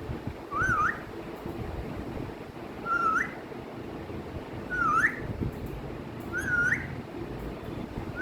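Pet parrot whistling a short phrase that dips then sweeps up, repeated four times about every two seconds over a steady low background rumble.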